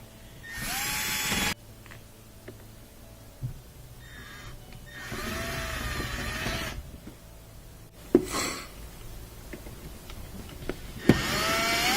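Power drill/driver running in four short bursts, its motor whine rising as it spins up on each, driving fasteners back in.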